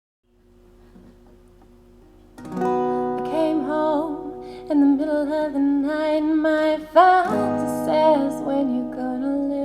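Intro of an acoustic cover song. It starts faintly, then about two seconds in strummed acoustic guitar comes in fully, with a wordless sung melody gliding over it.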